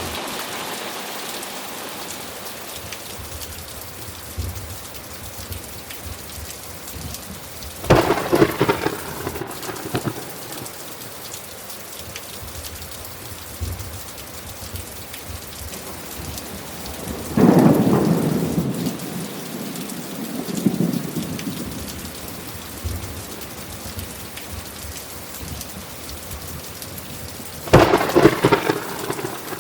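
Steady rain falling, with three sudden thunderclaps that roll off into rumbles. They come about eight seconds in, about halfway through, and near the end; the middle one has the longest rumble.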